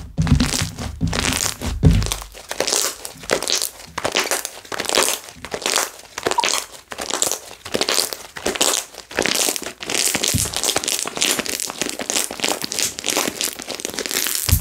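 Hands squeezing and stretching slime, with a dense, continuous crackle of small air bubbles popping in it. Deeper soft thuds of the slime being pressed or folded sound in the first two seconds.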